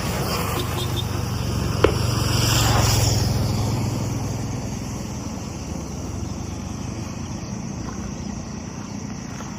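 A car driving, its engine and road noise heard steadily from inside, swelling louder for a couple of seconds about two seconds in. A single sharp click comes just before the swell.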